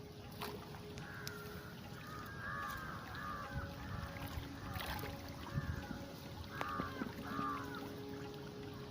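Water trickling and flowing through a flooded field, with a run of short, repeated chirping animal calls over it and a few light clicks or splashes.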